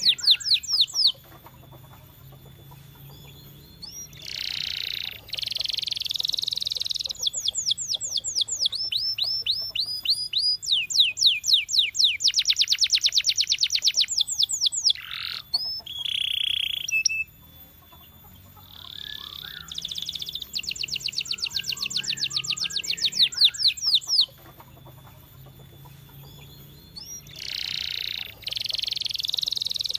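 Domestic canary singing: phrases of rapid repeated whistled notes and rolling trills, broken by short pauses of one to three seconds.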